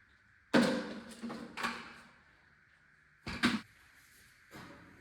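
A few sharp knocks and clunks, as of objects being handled and set down: a loud one about half a second in, another a second later, a quick double knock past the middle, and a fainter one near the end.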